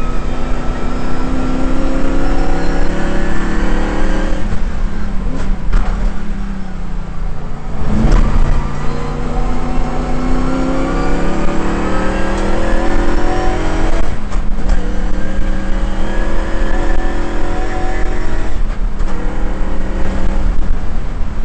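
Shelby GT350's V8 engine heard from inside the cabin on a track lap, pulling hard with its note climbing and then dropping at each gear change. About a third of the way in it eases off for a few seconds before a sharp blip and climbs again.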